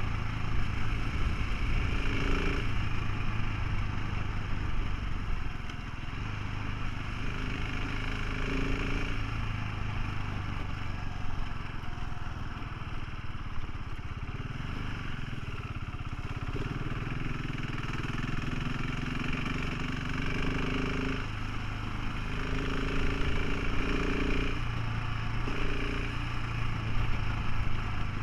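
Motorcycle engine running steadily while riding, under an even rush of road and wind noise. The engine note rises and falls a little at times.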